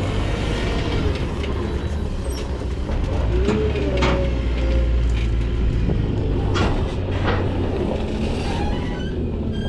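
A heavy diesel vehicle's engine runs with a steady low rumble. Several sharp metallic knocks and a brief squeal come over it in the middle.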